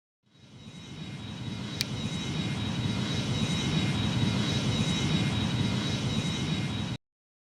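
Airbus A310 jet engines running: a steady rushing noise with a high whine that fades in over the first couple of seconds, with one brief click, and then cuts off suddenly near the end.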